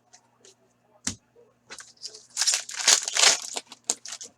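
Wrapper of a 2015-16 Upper Deck Series 1 hockey card pack being torn open and crinkled, with a crackling rip about two and a half seconds in and a few sharp clicks and taps around it.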